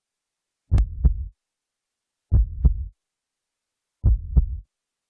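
Heartbeat sound effect: deep double thumps, lub-dub, three times at a slow even pace with total silence between. It is played for suspense just before a winner's name is announced.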